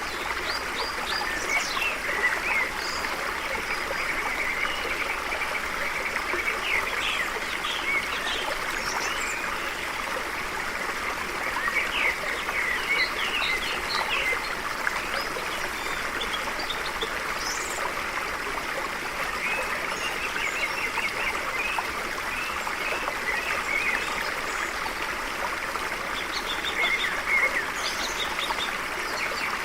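Stream flowing steadily over stones, with birds chirping now and then above the water.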